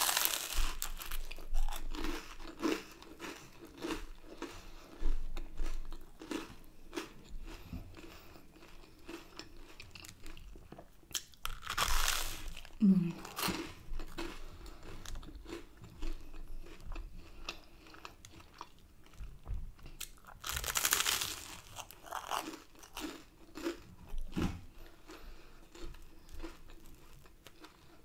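A person eating close to the microphone: bites and chewing of a meal of honey chicken, chips and garlic bread, with many small crunches. Two louder crunchy bites come about 12 and 21 seconds in, each lasting about a second.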